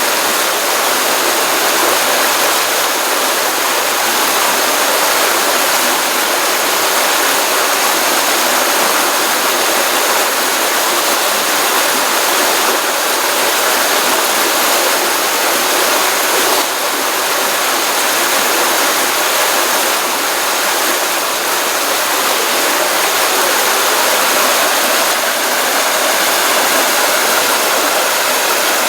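Small stream of water running steadily over stones, a continuous even rush of splashing and gurgling.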